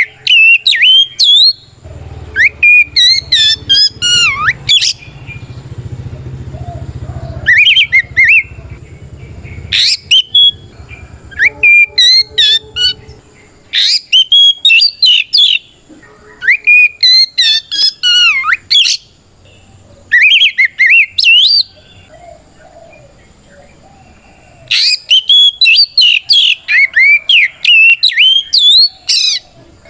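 Oriental magpie-robin (kacer) singing its full 'ngeplong' challenge song: loud, rapid phrases of sweeping whistles and chattering notes, each one to four seconds long, with short pauses between them. The song is a call to a rival. A low rumble sits under the song in the first third.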